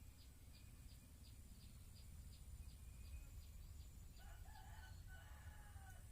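A rooster crowing faintly about four seconds in, over a low steady rumble. Before the crow, a high ticking repeats about three times a second.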